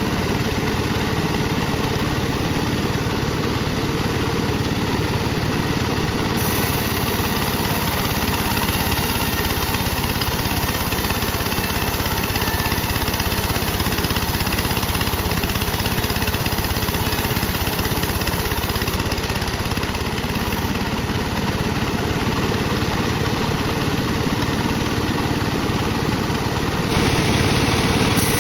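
Sawmill bandsaw running steadily while it saws dry teak. About a second before the end it gets louder and brighter.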